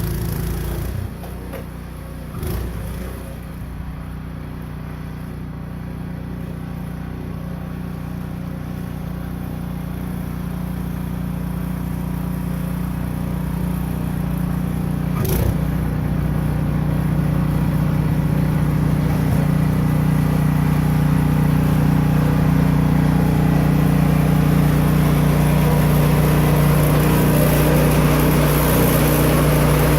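Gas engine of a Craftsman snow blower running steadily while clearing snow, growing gradually louder, with a couple of brief knocks.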